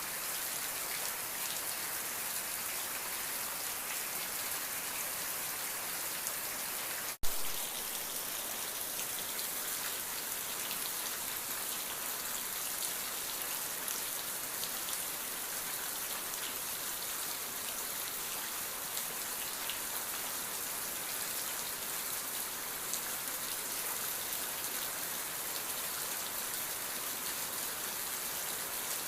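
Steady rain falling, an even hiss of many small drops. A single brief click cuts through about seven seconds in.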